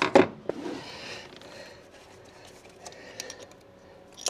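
A man's short strained grunt of effort with a breathy exhale as he forces a tight fastener, then a few faint metallic clicks of hand tools.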